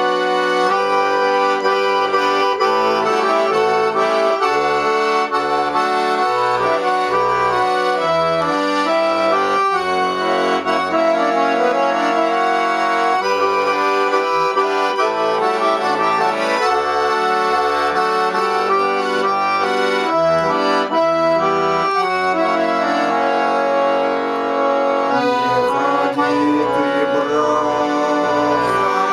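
Accordion playing a Cossack folk tune without singing: a melody over held chords, with the bass notes stepping beneath it.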